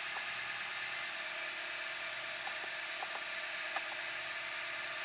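A 2013 Honda Civic Hybrid idling just after start-up: a steady, even whir with a few faint clicks.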